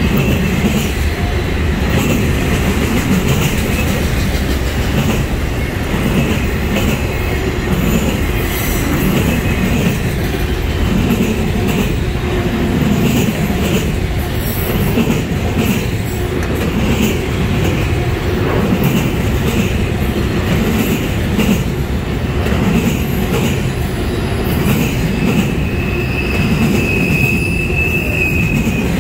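Autorack freight cars rolling past close by: a steady rumble of steel wheels on rail with a rhythmic clatter from the wheels. A thin, high wheel squeal rises near the end.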